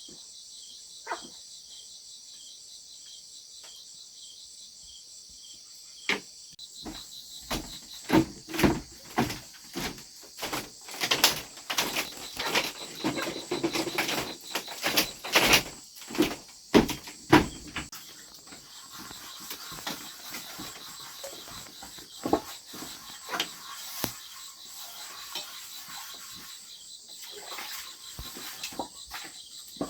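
Insects chirring steadily, then from about six seconds in a run of irregular sharp knocks and clatter, thickest in the middle and thinning out towards the end.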